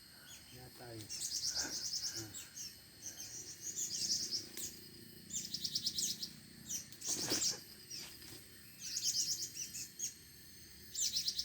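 Small songbird calling in short, high-pitched phrases of rapid trilled chirps, repeated every second or two. A brief knock sounds about seven seconds in.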